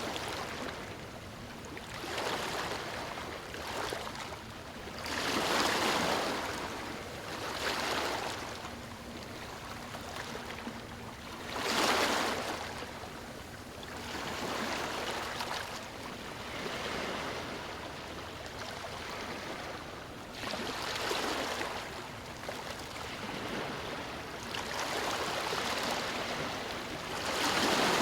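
Waves breaking and washing over a stony shore, each one a swelling hiss that rises and falls away every few seconds, some surges stronger than others.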